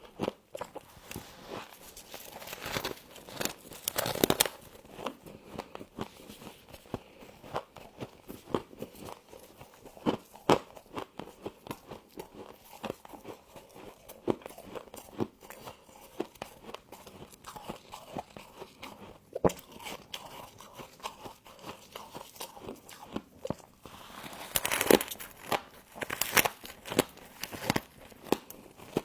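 Close-up crunching and chewing of frost: crisp, irregular crunches as mouthfuls are bitten and chewed, with busier runs of crunching about four seconds in and again near the end.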